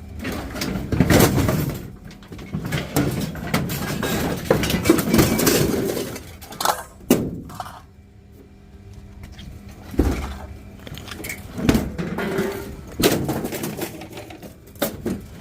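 Irregular clanking, knocks and scraping of a washing machine being shifted and dragged out of the back of a van, with several sharp metallic bangs.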